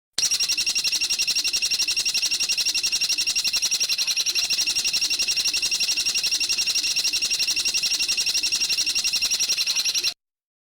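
A songbird's rapid, even trill of high notes, about ten a second, kept up without a break for about ten seconds. It starts and cuts off abruptly.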